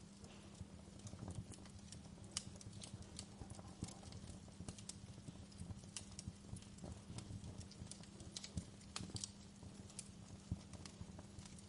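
Wood fire burning in a fireplace, crackling with irregular pops and snaps over a low steady rumble.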